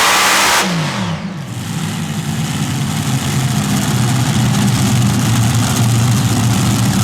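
A super modified pulling tractor's engine at full throttle is shut back about half a second in, its revs falling quickly, then runs steadily at low revs.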